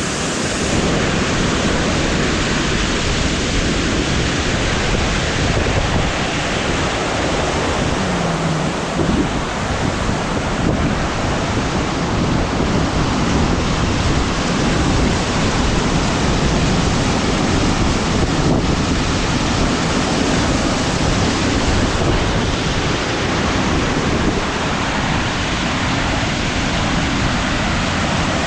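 Waterfall rushing: a steady, loud wash of falling water that does not change.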